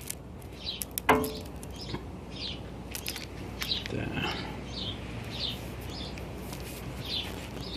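A small bird chirping over and over, a short high call about once or twice a second, against light rustling of braided hose being handled. About a second in there is a single sharp clink.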